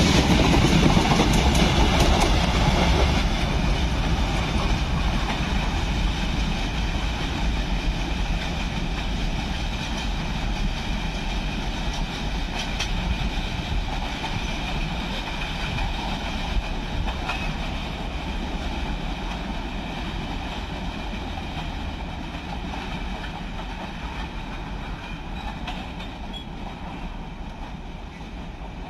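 Freight train of rail tank wagons rolling past and away, the steady sound of its wheels on the rails fading gradually as the end of the train recedes.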